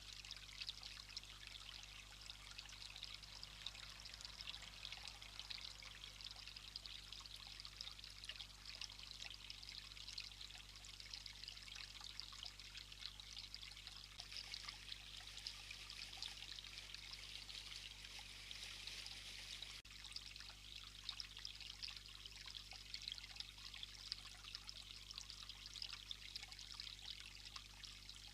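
Faint, steady trickle of running water, with a fine crackle through it.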